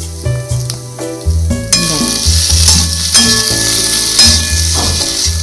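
Potato pieces sizzling in hot oil in a steel wok, the hiss starting suddenly a little under two seconds in, with a spatula scraping and clinking as the mixture is stirred. Background music with a steady bass line runs underneath.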